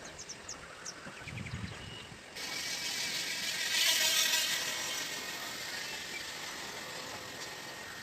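A few faint high chirps, then about two and a half seconds in a rushing noise sets in abruptly, swells to a peak, and slowly fades.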